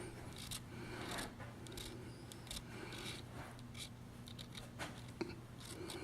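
Faint scratchy rustling with scattered soft clicks, handling noise of a hand-held recording device, over a low steady room hum.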